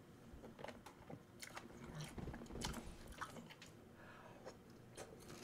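Faint close-up chewing and biting of spicy tteokbokki (chewy rice cakes in sauce), with scattered small wet mouth clicks.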